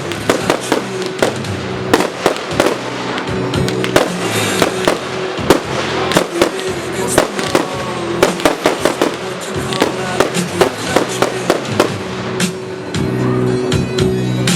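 Fireworks display: a rapid, irregular run of sharp bangs from shells bursting, several a second, over background music. The bangs thin out near the end as the music comes forward.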